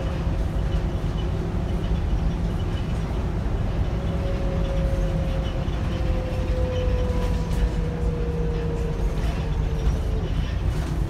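Volvo B7RLE bus heard from on board: a steady low rumble from its six-cylinder diesel and the running gear, with a whine that slowly falls in pitch from about four seconds in until near the end.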